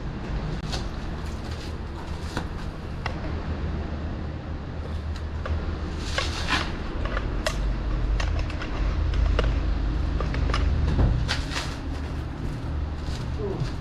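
Infiniti Q50 Red Sport 400's twin-turbo 3.0-litre V6 with a Motordyne cat-back exhaust and lower downpipes, running under way: a steady low exhaust drone that grows louder about nine to eleven seconds in. Scattered sharp clicks sound over it.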